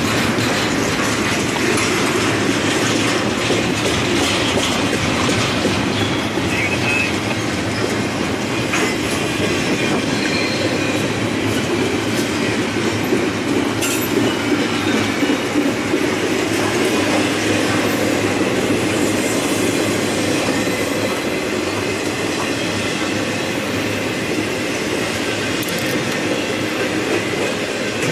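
Double-stack intermodal freight train passing close by: a steady rumble and rattle of loaded container well cars rolling over the rails, with occasional wheel clicks.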